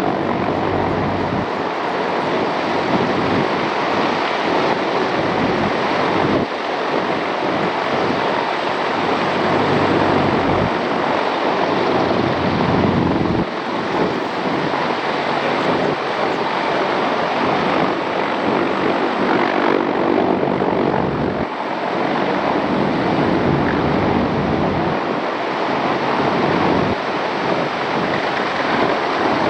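Aircraft engine noise as a plane flies over at an airshow: a loud, steady drone that swells and eases a little as it passes.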